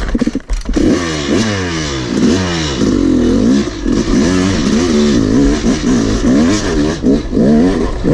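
Yamaha YZ250 two-stroke dirt bike engine revving hard, its pitch rising and falling again and again as the throttle is worked on a difficult rocky climb.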